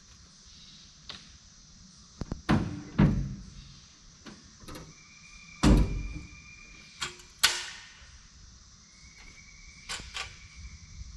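A string of sharp knocks, clunks and a door-like thud as gear is pulled out of a pickup truck, the loudest coming a few seconds in and around the middle. A steady high buzz sounds twice in the background, each for a couple of seconds.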